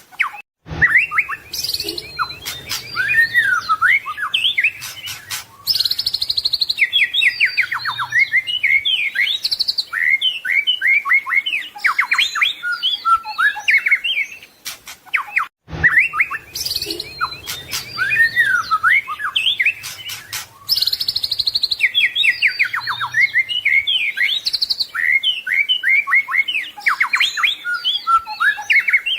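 White-rumped shama (murai batu) singing a loud, fast-changing song of whistles, rapid trills and chattering phrases. The same roughly 15-second run of phrases plays twice, as a loop.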